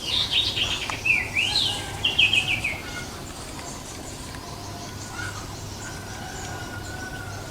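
Male sirtu songbird singing: a loud, rapid run of sharp chirping notes that stops about three seconds in. Later a faint thin whistle sounds over a low steady background hum.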